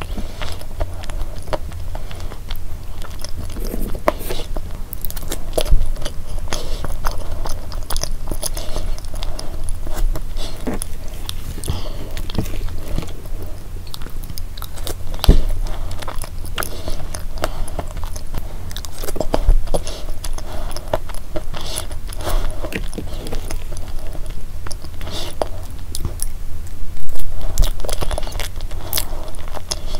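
Close-miked chewing of a soft chocolate dessert with a crumbly topping: wet mouth sounds with many small, irregular sharp clicks.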